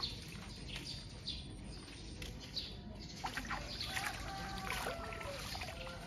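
Birds chirping and calling outdoors: short high chirps in the first half, then from about halfway several overlapping longer pitched calls, some held and some gliding, over a steady background hiss.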